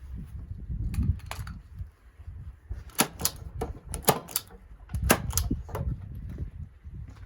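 A run of sharp clicks or taps, mostly in quick pairs about a quarter-second apart, heard over a low rumble.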